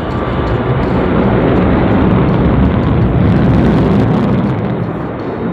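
Jet aircraft engine roar passing, swelling to a peak about three and a half seconds in and then fading.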